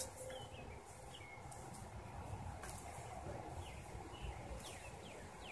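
Faint bird chirps, short calls falling in pitch, a few of them close together near the end, over a low steady background rumble.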